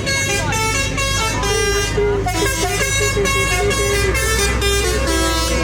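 Vehicle horns tooting in a rapid run of short blasts, about two a second, over the steady low rumble of engines.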